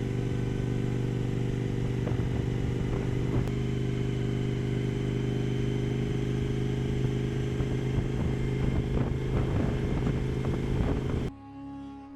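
Suzuki V-Strom motorcycle engine running at a steady, unchanging pitch. It cuts off abruptly near the end.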